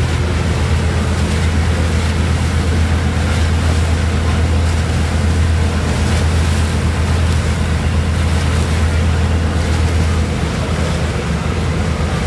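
Junk boat's engine running with a steady low drone, under wind and water noise on the microphone; the drone drops away about ten seconds in.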